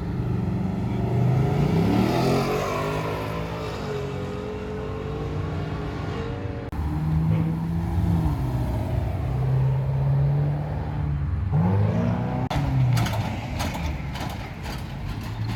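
Car engine revving: the pitch climbs sharply and falls back, holds at a steady pitch for a while, then climbs again. A run of sharp cracks follows near the end.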